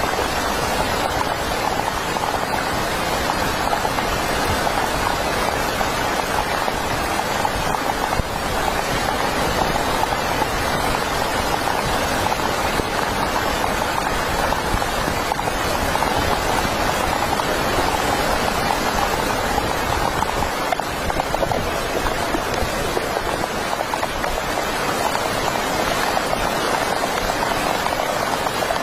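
Heavy rain falling steadily: an even, unbroken hiss with a low rumble beneath it.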